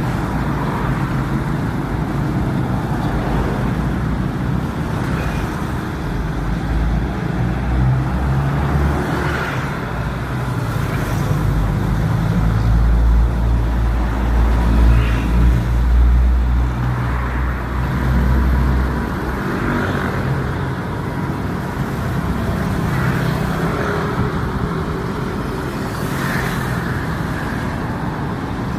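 Busy road traffic running steadily, with vehicles passing. A heavy vehicle's deep engine rumble builds from about 8 seconds in, is loudest around 13 to 16 seconds, and drops away about 19 seconds in.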